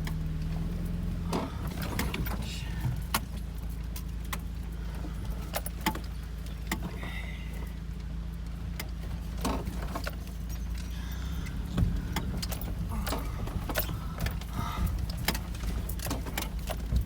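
Car engine running at low speed as the car crawls over a rough rocky track, with frequent sharp knocks and rattles from the body and loose contents, heard from inside the cabin.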